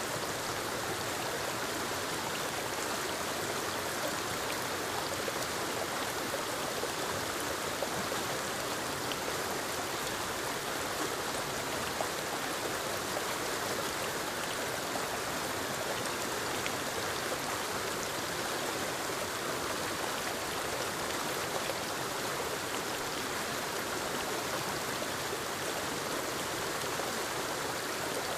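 Steady rush of a small forest waterfall cascading over rocks into a stream.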